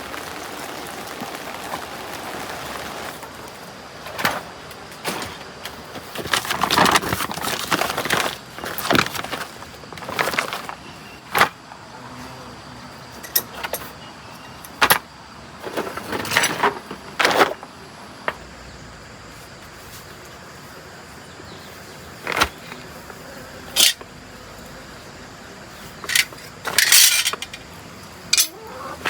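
Metal hand tools and parts clanking, knocking and scraping in irregular strikes while a tiller is worked on. A steady rain hiss in the first few seconds fades out.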